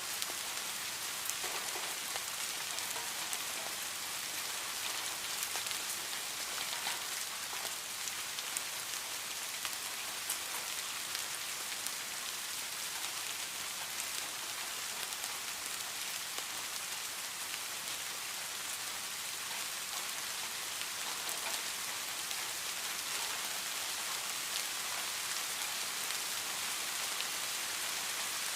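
Steady heavy rain falling, a dense hiss of drops with scattered nearer drop ticks, no thunder.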